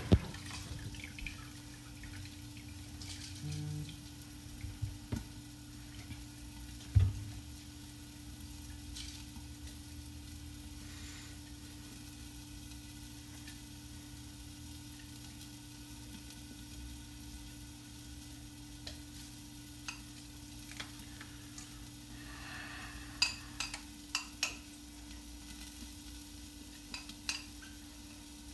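Meatballs frying in olive oil in a covered pan: a faint steady sizzle over a steady hum, with a few light clicks and clinks of a utensil, a cluster of them near the end.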